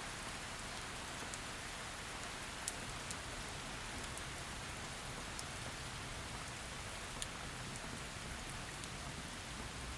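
Steady heavy rain falling, a continuous hiss with occasional sharp, close drop strikes standing out, the clearest about three seconds in and again about seven seconds in.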